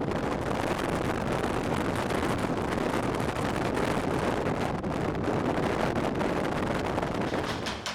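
Strong storm wind buffeting the microphone, a steady heavy rushing noise.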